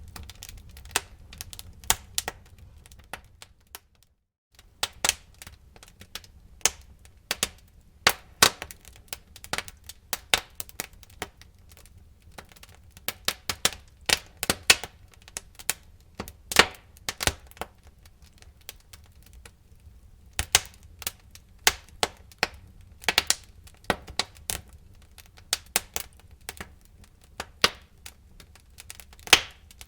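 Wood fire burning in a fireplace, crackling with irregular sharp snaps and pops over a low steady rumble of the flames. The sound cuts out completely for about half a second around four seconds in.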